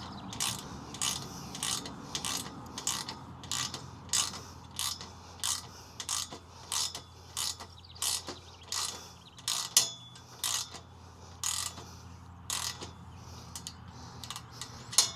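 Hand ratchet wrench being worked back and forth to tighten a bolt at the base of a metal roof mount, clicking about one and a half strokes a second, the strokes spacing out a little later on, with a sharper click about ten seconds in and another near the end.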